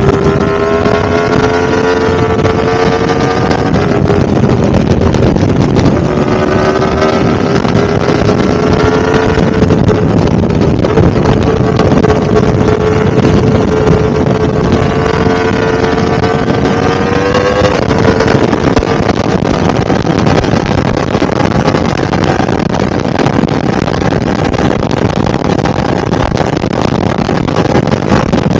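Yamaha R1-M's crossplane inline-four engine under way, its pitch climbing and dropping back at each gear change several times in the first 18 seconds, then holding steadier at cruise. Heavy wind noise on the microphone runs under the engine.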